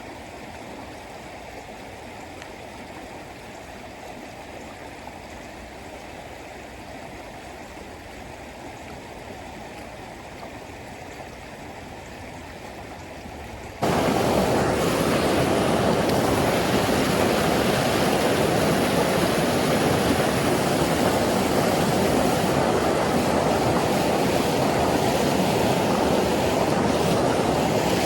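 Creek water rushing steadily; about halfway through it abruptly becomes much louder and fuller, as if much closer to the flowing water.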